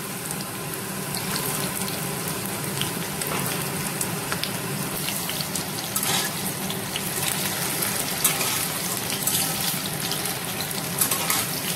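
Potato chunks sizzling steadily in hot mustard oil in a kadai. From about halfway through, a metal spatula scrapes and stirs them, adding scattered light clicks.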